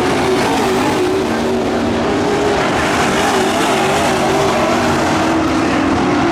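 A pack of dirt-track racing trucks running hard around the oval, several engines at once, their pitches rising and falling as they lift off and accelerate.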